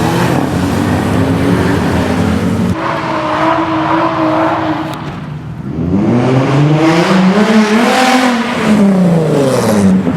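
Car engines running; about six seconds in one revs up, its pitch climbing to a peak and falling away again near the end.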